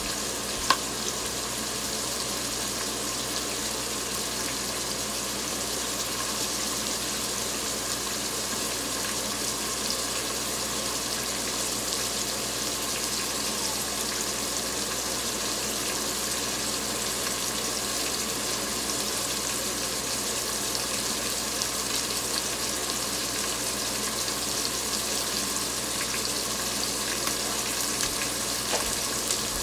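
Onions and tomatoes sizzling in a pot on an electric stove, a steady hiss, with a single sharp click a little under a second in.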